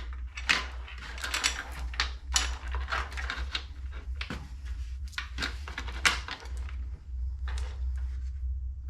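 Begleri beads clicking and the cotton cord rubbing as a knot is loosened and retightened by hand: a run of quick small clicks and scratchy rustles, over a steady low hum.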